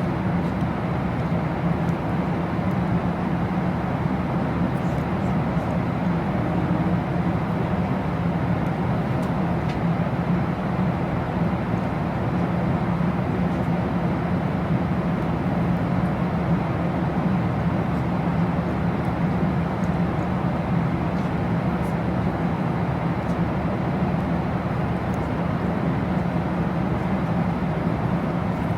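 Steady drone inside a moving vehicle: an even, unbroken rumbling noise with no pauses or changes.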